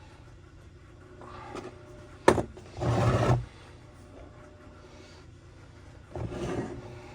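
A single sharp knock about two seconds in, then short scraping, rubbing noises of parts being handled, with another scrape near the end.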